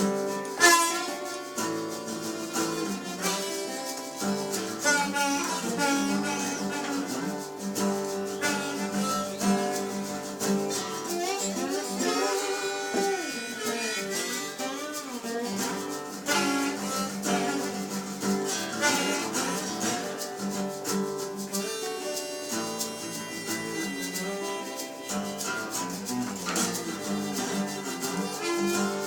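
Live band music: an instrumental passage led by guitar, with other melodic instruments and no singing.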